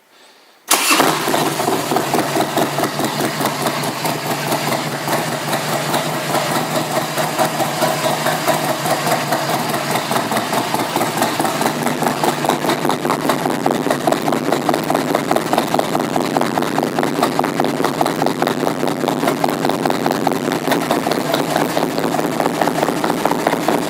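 2001 Harley-Davidson Electra Glide Classic's Twin Cam 88 V-twin, fitted with an S&S carburetor, starting less than a second in and catching at once, then idling with a steady pulsing beat.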